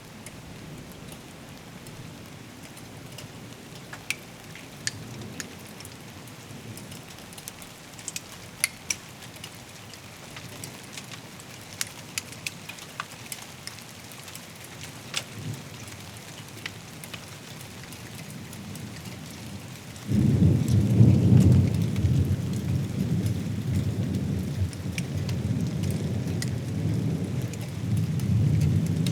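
Steady rain hiss with scattered sharp drop ticks. About two-thirds of the way in, thunder breaks in suddenly and rumbles on, low and loud.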